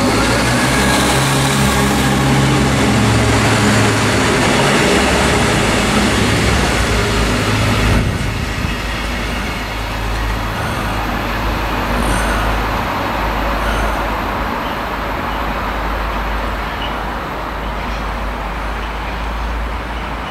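A train passing close by, a loud rumble of wheels on rails that cuts off abruptly about eight seconds in. After it comes steadier, quieter road traffic noise.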